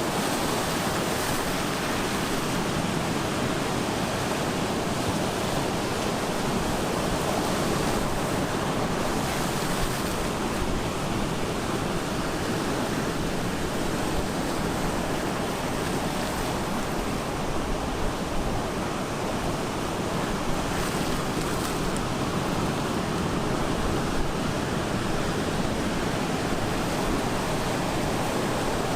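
Ocean waves breaking on the shore, a continuous dense wash of surf with gentle swells in level.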